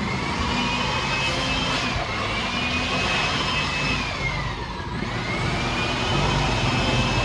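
A motor runs steadily with a low hum and a constant rushing noise, over a high whine that dips and swoops back up every two to three seconds.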